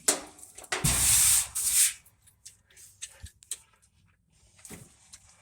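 Parts of an opened clothes dryer being handled: a loud rushing scrape lasting about a second, followed by scattered light clicks and knocks.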